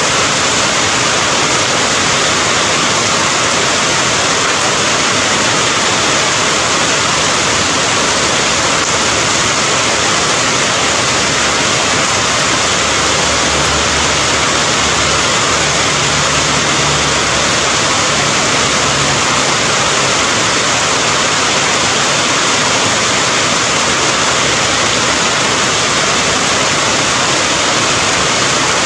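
Steady heavy rain: a dense, even hiss with no separate drops or thunder standing out. A faint low hum sits under it for several seconds around the middle.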